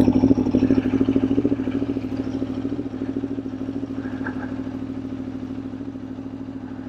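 A 2021 Aprilia Tuono V4's V4 engine idling with a steady, even beat. It is louder in the first two or three seconds, then settles.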